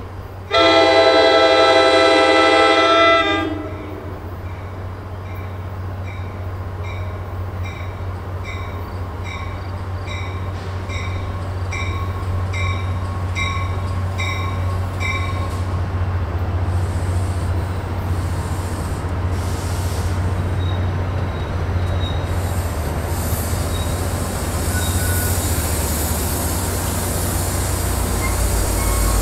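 NJ Transit commuter train sounding its horn in one long blast of about three seconds, then a bell dinging about once a second while the train's rumble and wheel noise build steadily as it comes in and runs past.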